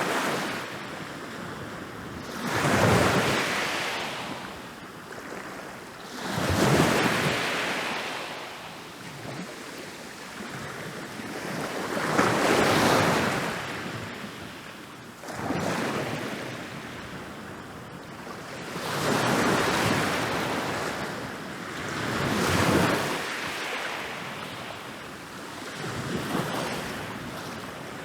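Ocean waves rolling in and breaking on a beach, each wave surging up and washing back, with a new one every four seconds or so.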